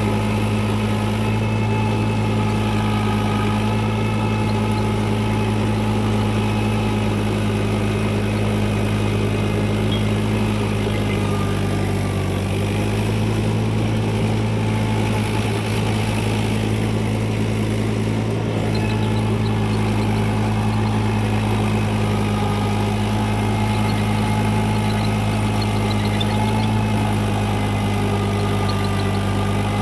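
Tractor diesel engine running at a steady speed, with a constant low drone.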